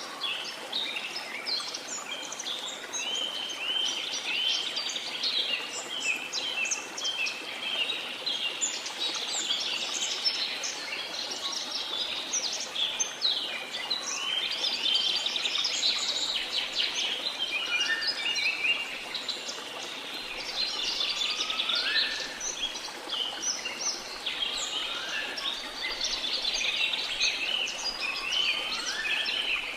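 Rainforest ambience: a dense chorus of many birds chirping and calling over a steady hiss of rain. In the second half, a lower call sweeping upward repeats four times, every few seconds.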